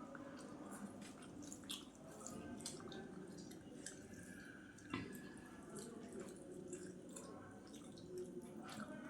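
Close-miked eating of rice with vegetable curry: wet chewing and scattered small mouth clicks, with one sharper click about five seconds in.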